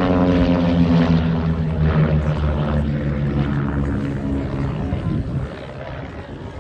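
De Havilland Chipmunks' 145 hp Gipsy Major four-cylinder engines running as the propeller aircraft fly past, the engine note falling in pitch and fading away about five seconds in.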